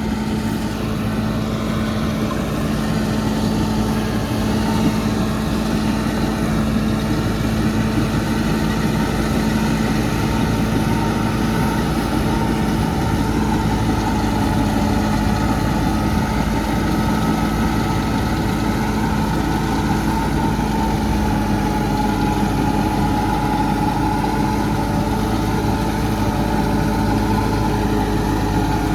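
Massey Ferguson 385 diesel tractor engine running at a steady speed, a constant drone with a strong low hum.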